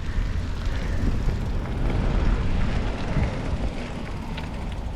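A car driving by: a low engine and tyre rumble that swells about two seconds in and then eases off.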